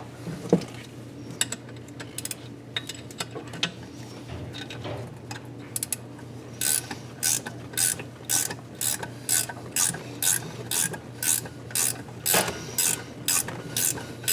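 Hand ratchet wrench clicking as it is swung back and forth to run a thread chaser over damaged exhaust-side threads. Scattered clicks and light knocks come first, then from about halfway in a steady rhythm of about two ratchet strokes a second.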